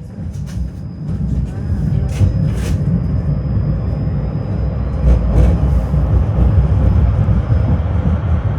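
Tram running on its rails, heard from inside the car: a heavy low rumble that builds over the first second or so and then holds steady, with several sharp clacks from the wheels and track.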